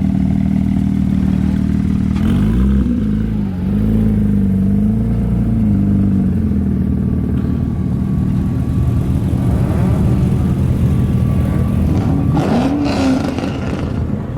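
A car engine running at a steady idle, its revs swinging up and down several times about two seconds in and briefly again near the end.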